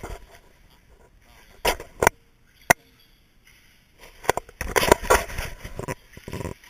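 Radio-controlled short course trucks running on a track: uneven bursts of motor and tyre noise with sharp knocks, one especially sharp knock near the middle and a longer stretch of noise in the second half.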